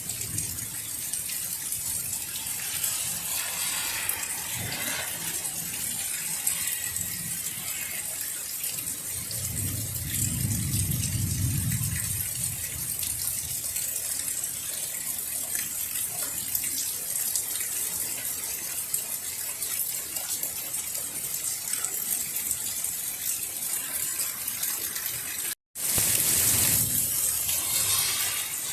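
Heavy rain falling and splashing steadily, with a low rumble about ten seconds in. The sound cuts out for a moment near the end.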